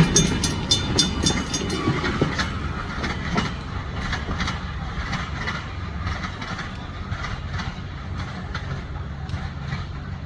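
Train rolling past, its wheels clicking over the rail joints in a quick run that thins out as the train moves away, leaving a fading low rumble.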